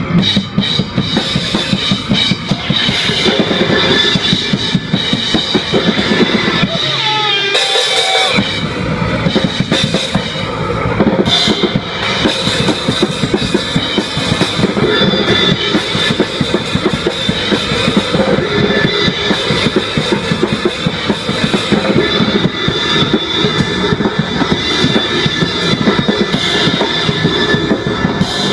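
Live rock band playing loud, with the drum kit's bass drum and cymbals keeping a steady beat. The low end drops out briefly about seven seconds in, then the full band comes back in.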